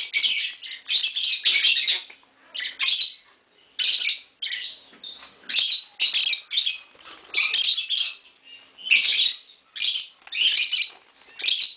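Pet lovebirds chirping in quick, high-pitched bursts, one after another with short pauses between.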